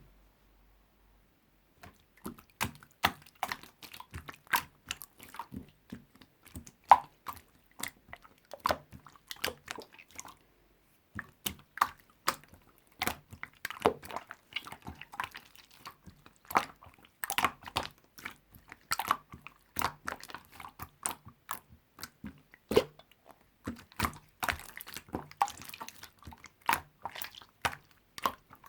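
Red slime being squeezed and worked by hand, making irregular wet clicks and pops in quick succession. The clicking starts about two seconds in and pauses briefly around ten seconds in.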